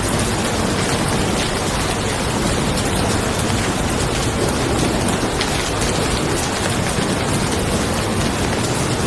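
Steady rain falling on a car, a dense even patter of many small drop ticks with no single loud event.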